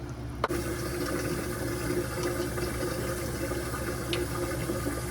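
Peach juice going into a hot pan and sizzling: a click about half a second in, then a steady hiss that carries on, over a low steady hum.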